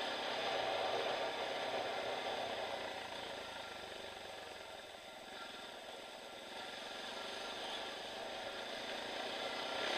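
Small off-road motorcycle engine running steadily on a gravel track. It grows fainter around the middle and louder again near the end.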